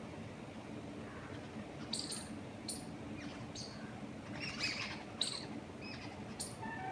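Birds chirping: short, high calls come in from about two seconds in, busiest a little past the middle, over a steady low rush of wind through trees.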